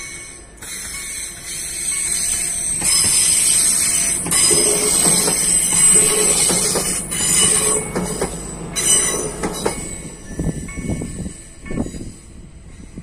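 Hybrid regional multiple unit passing over a level crossing, its wheels on the rails giving a loud, high-pitched squeal from about three seconds in until it dies away around ten seconds. The crossing's electric warning bells are ringing at the start, with a few knocks as the train clears.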